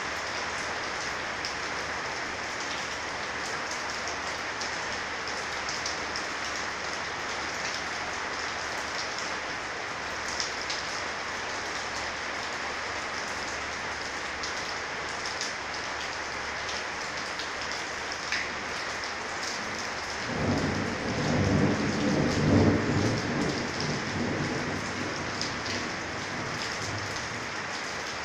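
Heavy rain falling steadily with a constant hiss, its drops ticking on a corrugated metal roof. About twenty seconds in, a roll of thunder rumbles for around four seconds, and this is the loudest part.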